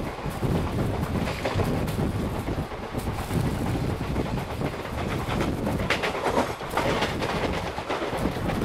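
Passenger train running at speed, heard from the coach door: a steady rumble of wheels on rails with scattered clacks.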